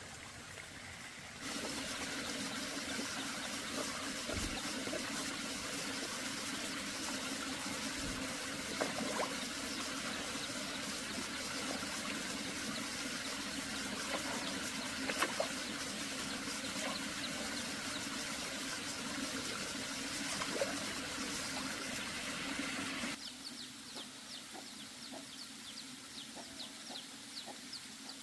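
Water running steadily, starting and stopping abruptly. Once it stops, quieter small ticks and faint chirps, like fowl, are left.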